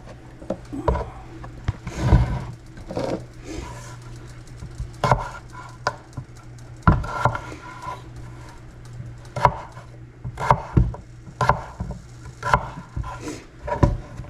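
Kitchen knife cutting red potatoes into small cubes on a cutting board: irregular sharp knocks of the blade hitting the board, sometimes two in quick succession, with pauses between.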